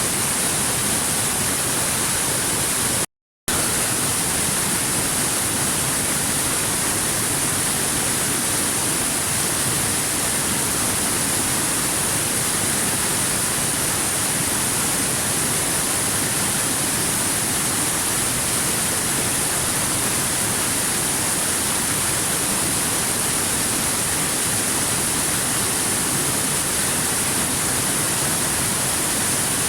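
Waterfall: a steady, even rush of falling water with no changes. About three seconds in it cuts to silence for a fraction of a second, then carries on.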